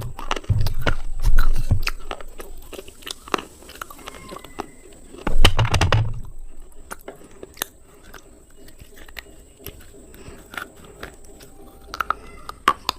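Slate pencils being bitten and crunched up close: two loud crunching bites about five seconds apart, each followed by chewing with many small brittle clicks.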